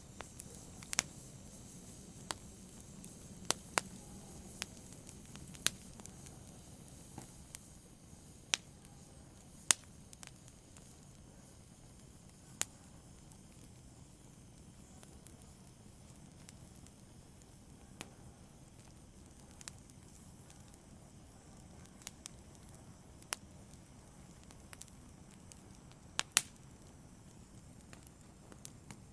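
Wood fire crackling in a fireplace: irregular sharp pops and snaps, a few much louder than the rest, over a faint low hiss of the flames.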